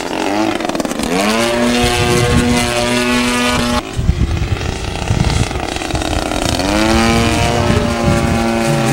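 Radio-controlled model airplane flying, its propeller engine a steady, buzzing tone with many harmonics. The pitch drops at the start, holds, shifts suddenly about four seconds in, and sweeps back up near seven seconds as the plane changes throttle and passes by.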